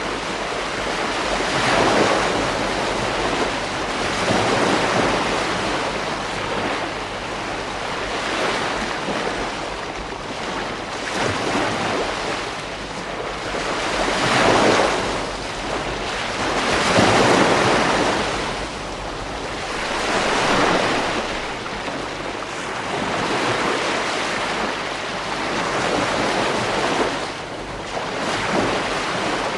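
Ocean waves breaking on a beach, a steady wash of surf that swells and falls every few seconds, with some wind on the microphone.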